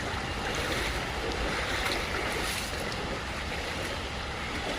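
Steady rushing noise of heavy monsoon rain and running water.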